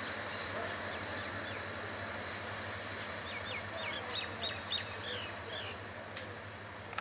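Passenger train rolling away along the track, a steady rumble of wheels on rails that slowly fades. About halfway through, a bird gives a quick run of short chirps.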